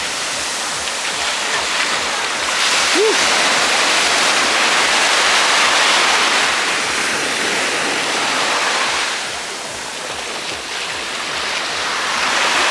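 Ocean surf washing up on the beach, a steady rush of waves that swells and eases, quieter for a couple of seconds about three-quarters of the way through.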